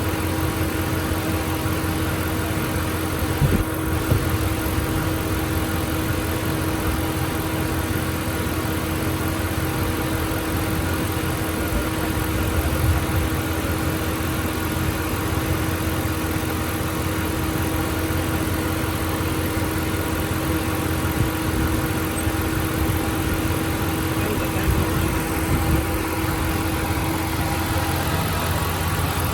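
Dodge Ram Hemi V8 idling steadily while it warms up toward the thermostat opening, with a steady hum that stops near the end and a couple of brief knocks.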